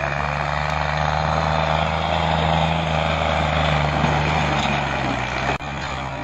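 New Holland tractor's diesel engine running hard with a steady, droning note that builds slightly. It drops suddenly to a quieter engine sound about five and a half seconds in.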